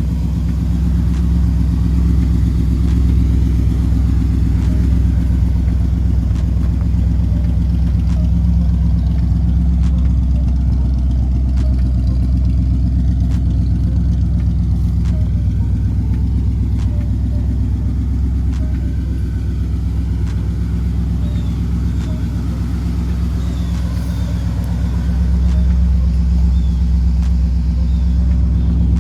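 Small-block Chevrolet 350 V8 in a 1952 Chevrolet Styleline Deluxe idling steadily, a little louder near the end.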